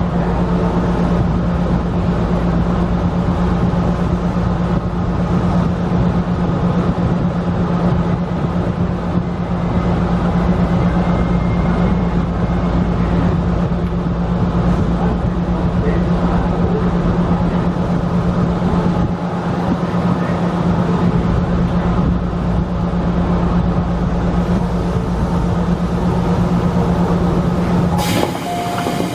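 Electric commuter train running slowly on the track, heard from inside behind the driver's cab: a steady low hum over continuous wheel-and-rail rumble. The sound changes abruptly about a second before the end.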